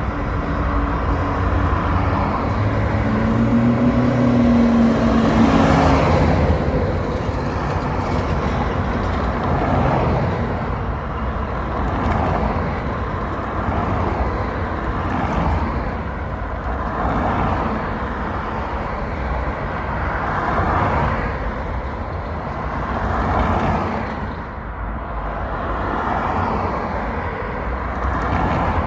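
Motor vehicle traffic: a steady low engine and road rumble with a series of rising and falling swells, like vehicles passing one after another. A low engine note stands out for a few seconds near the start.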